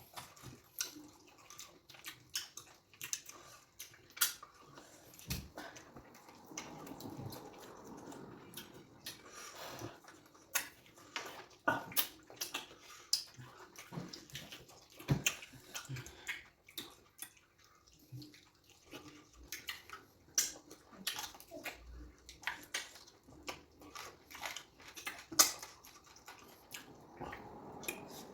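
Wet eating sounds: irregular lip smacks, clicks and chewing of fufu with slimy okra soup, a few sharp smacks a second.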